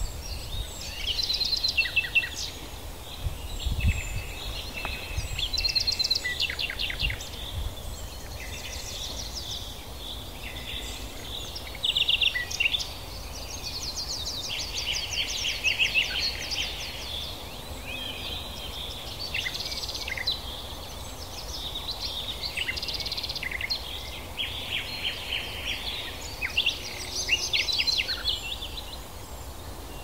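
Several small birds singing at once, with overlapping chirps and fast trills, some gliding down in pitch, over a low outdoor rumble.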